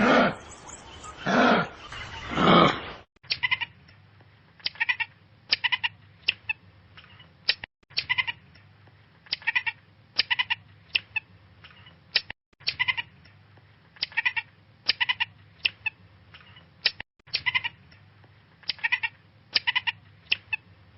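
Loud animal roaring or bellowing calls, two of them, in the first few seconds. Then a different animal gives short, high-pitched calls in quick clusters again and again over a steady low hum.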